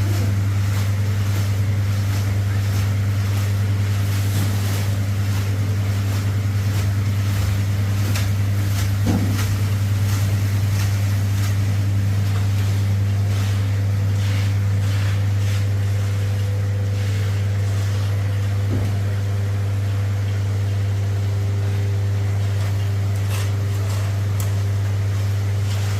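A motor running steadily, a low drone that holds one even pitch throughout, over a light hiss.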